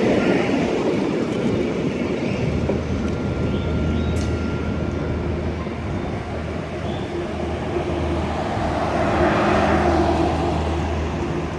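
Renfe Class 252 electric locomotive hauling a rake of Talgo carriages into the station, a steady low hum over rolling rail noise. A swell of noise comes about nine seconds in.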